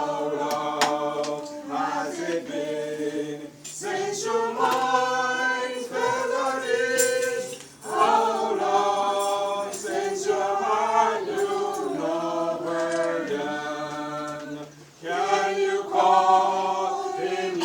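Church choir singing, in phrases with brief pauses between them.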